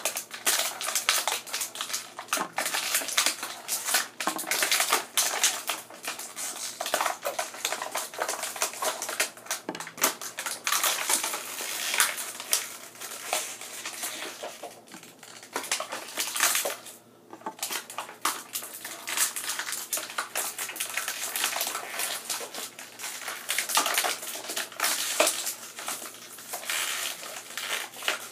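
Plastic toy packaging crackling and clicking as small Shopkins figures are pried and popped out of it: a dense, irregular run of clicks and crunches, with a brief lull about two-thirds through.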